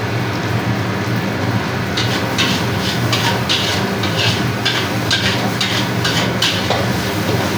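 Metal spatula scraping and knocking against a wok while nasi goreng is stir-fried, in a quick run of strokes about two or three a second starting about two seconds in and stopping near the end, over a steady low roar of the burner.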